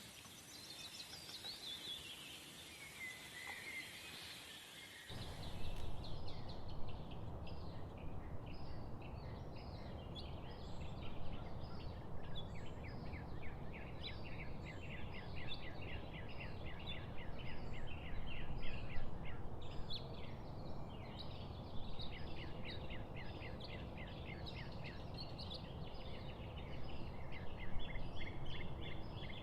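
A dense chorus of many small birds chirping rapidly over a steady low rumble. The first few seconds are a different, hissier recording with one descending call, which gives way abruptly to the chorus about five seconds in.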